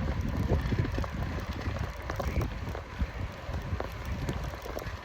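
Riding noise from a hybrid bicycle in motion: wind rushing over the microphone, with a scatter of small ticks and rattles from the tyres and bike.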